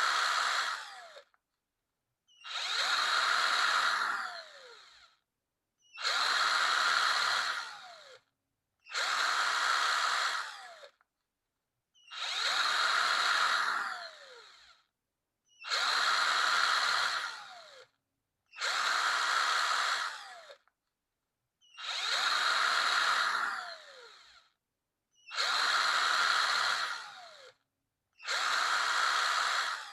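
Power drill run in short bursts of about two seconds, stopping between each, about every three and a half seconds. Each burst ends with a falling whine as the motor winds down.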